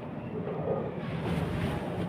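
Steady rushing background noise with a low hum and faint, indistinct voices in the room, while the question waits for an answer.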